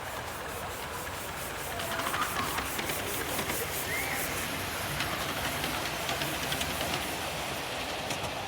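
Train running past: a steady rushing hiss, with a quick regular ticking over it for about the first half.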